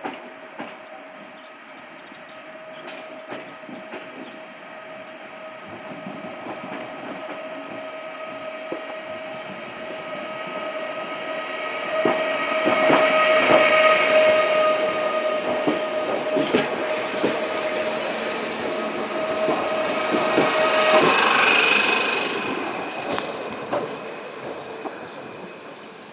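Regional multiple-unit train running in along the platform and passing close by. It gets louder as it nears, is loudest about halfway through, then fades as it pulls away. A steady whine runs throughout and stops suddenly about 21 seconds in, and the wheels click over the rail joints as the cars go by.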